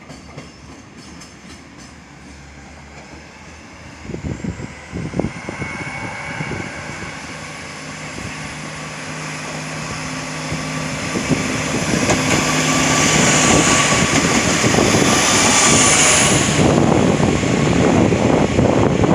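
Freight train hauled by a JR Freight EF210 electric locomotive approaching and passing, growing steadily louder from about four seconds in. It is loudest over the last several seconds, with the wheels clicking over the rails as the wagons go by.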